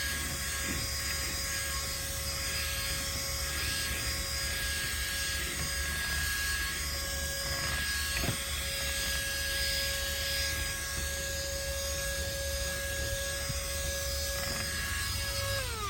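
Small cordless handheld car vacuum running steadily with a high whine, with one knock about eight seconds in. Near the end it is switched off and the motor's whine falls in pitch as it spins down.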